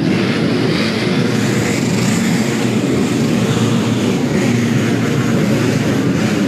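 Several underbone motorcycle engines revving and running hard together in a dirt-track race, a continuous loud mix of wavering engine notes.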